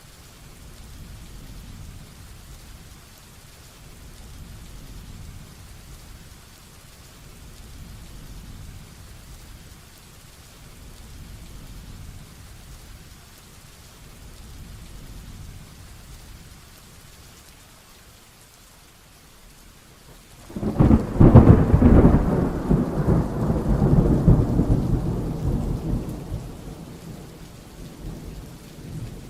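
Steady heavy rain with a low, muted hiss, then a sudden close thunderclap about two-thirds of the way in, cracking loudly and rolling into a long rumble that fades out near the end.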